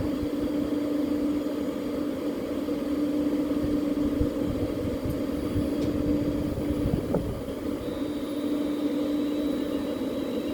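Electric train humming with one steady tone over a low rumble, unchanging in pitch and level.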